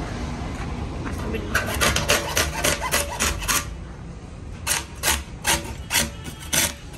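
Rasping or scraping strokes: a quick run of about eight short strokes, then a slower series of single strokes near the end, over a steady low background rumble.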